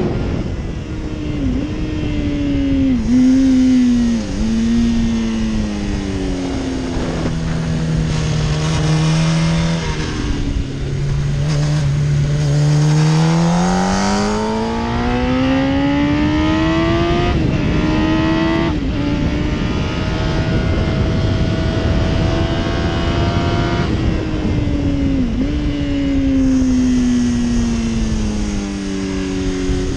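Yamaha R1 (RN12) inline-four sportbike engine heard from on board at track speed, with wind rush. Its revs fall with brief dips as it slows near the start, hold low and steady, then climb as it accelerates, dropping sharply twice at upshifts past the middle, and fall again as it slows near the end.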